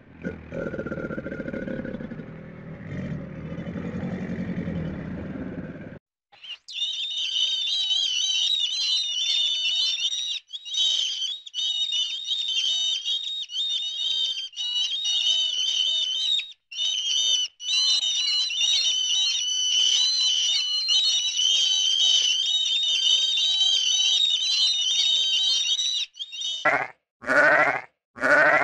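A low rumble that stops about six seconds in. Then a long run of rapid, high-pitched warbling mouse squeaks with short breaks. Near the end a sheep bleats about three times, each call rising in pitch.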